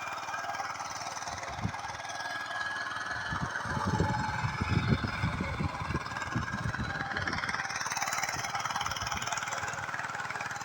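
Small engine of a paddy-field rice transplanter running steadily, with a run of low irregular thumps in the middle.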